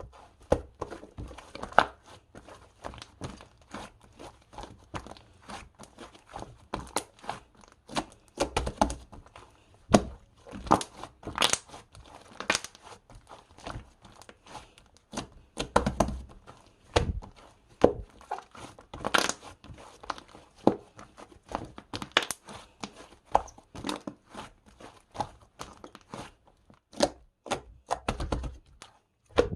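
Irregular handling noises close to the microphone: crinkling and tearing with scattered taps and thuds.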